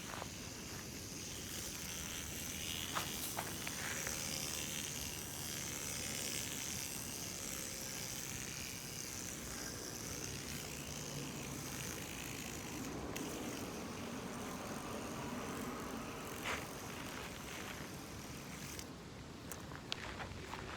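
Spintop Blizzard competition spinning top with a bearing built into its shaft, spinning with a steady whir, broken by a few sharp clicks.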